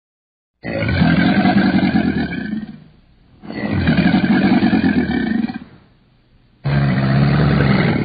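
Crocodile bellowing three times, each a deep call about two seconds long, with short pauses between.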